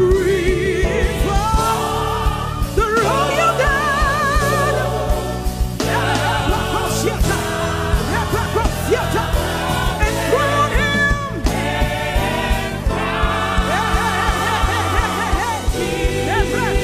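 Gospel music with a choir singing long, wavering held notes over a steady band backing with a regular beat.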